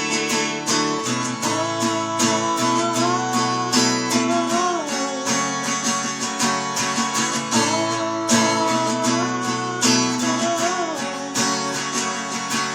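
Acoustic guitar strumming a steady rhythm, with a sliding melody line above it in an instrumental break of the song.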